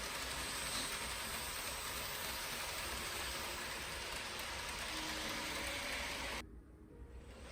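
N-gauge KATO 883 series Sonic model train running on its track: a steady hissing rattle of the small wheels on the rails over a low motor hum. It drops away suddenly near the end.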